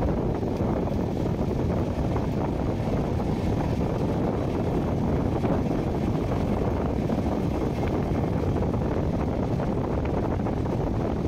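Steady rush of wind on the microphone at the open door of a moving passenger train, over the train's running rumble.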